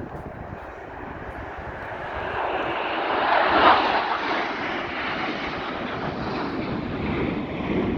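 Airplane flying past at an air show, its engine noise swelling to a peak about halfway through and then staying loud as it moves away.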